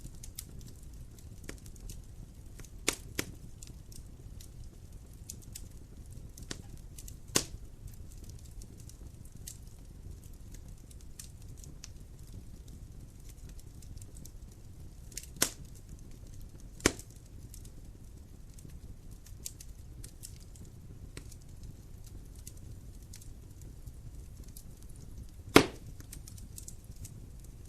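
Wood fire burning in a fireplace: scattered sharp pops and crackles, the loudest near the end, over a low steady rumble.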